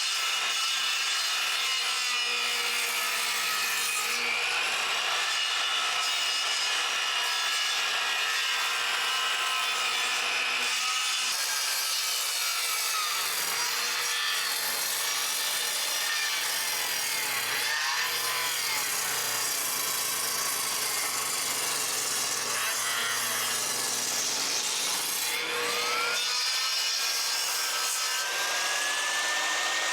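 Wood being sawn, with steady, continuous cutting noise.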